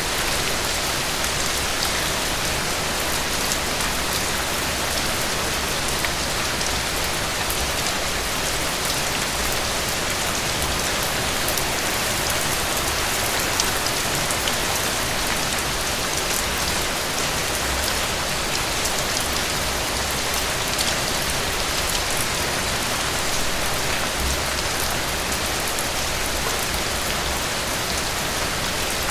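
Heavy rain falling steadily, a dense, even hiss with fine drop ticks throughout.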